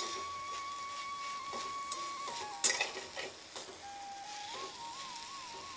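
Grated potatoes frying in oil in a metal kadhai, a steady sizzle, while a slotted metal spoon stirs and scrapes through them, clicking against the pan a few times, loudest about two and a half seconds in.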